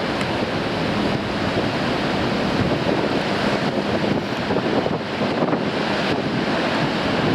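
Sea surf churning and breaking against a rocky shore in a strong wind, with gusts buffeting the microphone; the noise stays steady with no single standout crash.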